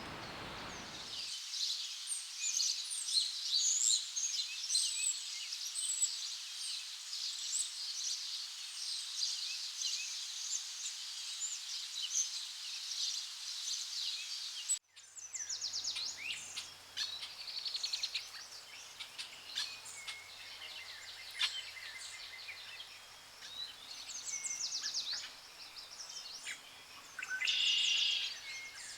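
A dense chorus of many birds chirping and singing, high-pitched and overlapping. About halfway through it cuts off abruptly and gives way to another bird chorus with a faint low hum beneath it.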